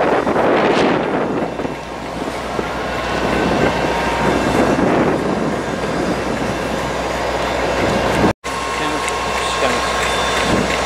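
GWR Intercity Express Train running past: a loud, even rush of wheels and air. About eight seconds in it cuts off abruptly and is followed by a quieter, steady diesel locomotive engine idling at the platform.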